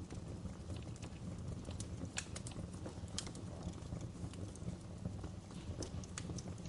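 Wood fire burning in a fireplace: irregular sharp crackles and pops, a few each second, over a low steady rumble of the flames.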